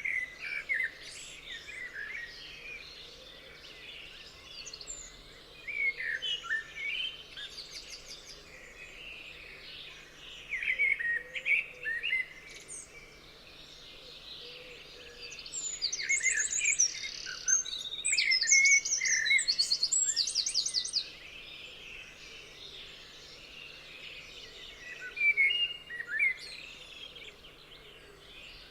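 Several songbirds singing and chirping together in woodland, with short whistled phrases and fast trills that overlap. The singing is densest about two-thirds of the way in, over a faint steady background hiss.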